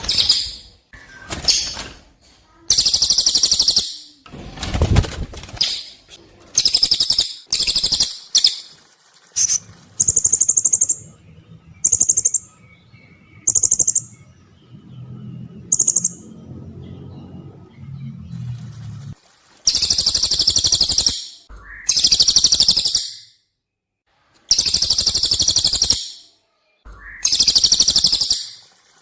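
Recorded songs of a cililin and a blue-crowned hanging parrot (serindit), edited together: repeated loud, high-pitched trills lasting a second or so each, with a run of short, sharp high chirps in the middle.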